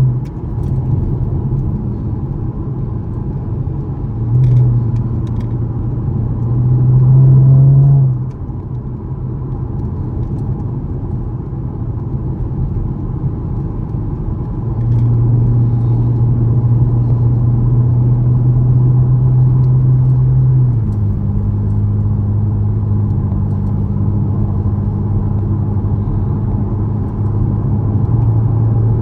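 2013 Camaro LS's 3.6-litre V6 running under way with tyre and road noise. The engine note swells briefly about seven seconds in and drops off sharply, then holds steady and steps down in pitch about two-thirds of the way through, as at a gear change.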